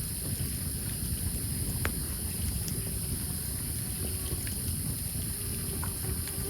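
Campfire of burning logs crackling, with scattered small pops and one sharper pop about two seconds in, over a steady low rumble.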